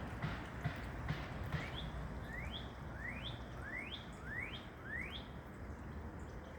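A songbird calling a series of six rising, whistled notes, evenly spaced about two-thirds of a second apart, over steady outdoor background noise.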